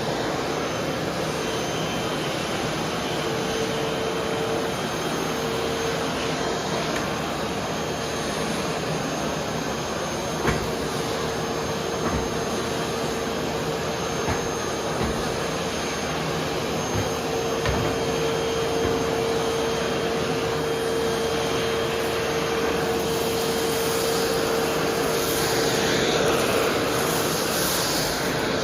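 Vacuum cleaner running steadily with a constant motor tone, with a few sharp clicks, the loudest about ten seconds in.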